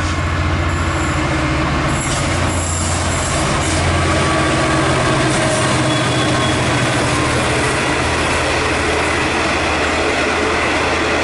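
A train passing close by: a loud, steady rumble of wheels on the rails over a low steady hum.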